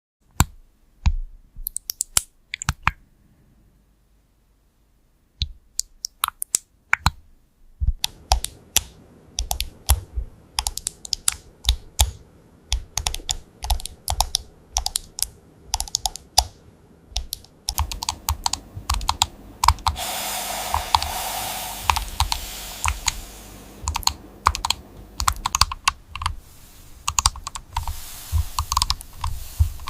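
Typing on a computer keyboard: quick, irregular runs of key clicks, with a short pause a few seconds in, then a denser stream of keystrokes. A hiss rises behind the typing about two-thirds of the way through.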